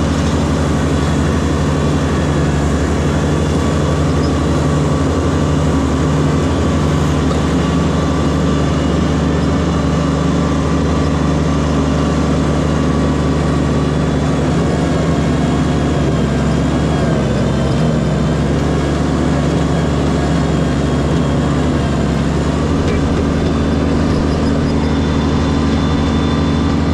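Diesel tractor engine running steadily, its pitch dipping slightly about two-thirds of the way through.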